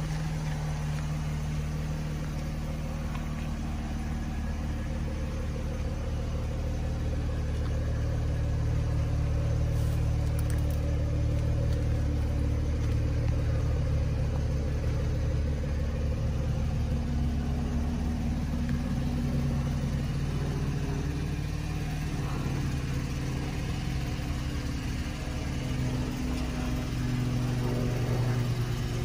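2012 Chevrolet Camaro's engine idling steadily, a low, even hum that gets somewhat louder for a while in the middle.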